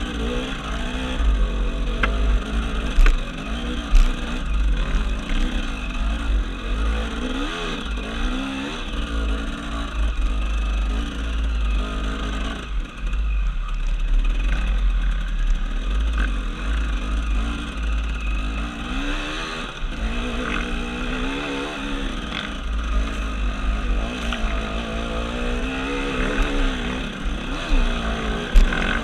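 KTM 300 two-stroke enduro motorcycle engine revving up and down continuously while climbing a rough trail, easing off briefly around the middle. Low rumble and a few sharp knocks from the bike over rough ground.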